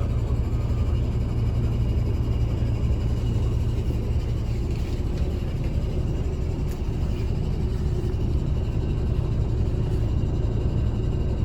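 Mercedes-Benz O307 city bus heard from inside the passenger cabin: its diesel engine and the road give a deep, steady drone with no gear changes or revving.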